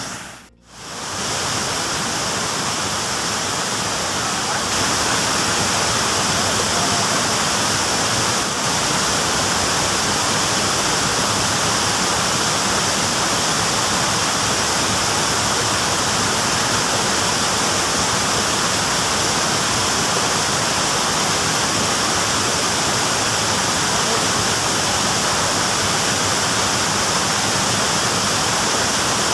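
Steady rush of flowing river water, an even hiss that cuts out briefly right at the start and then runs on unbroken.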